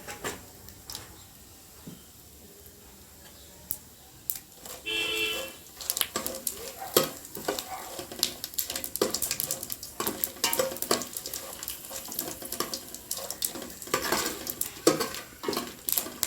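A metal spoon scrapes and clicks against a pan while dried red chillies and cumin seeds fry in hot oil with a light sizzle. The stirring starts about six seconds in. Just before it there is a brief high-pitched tone.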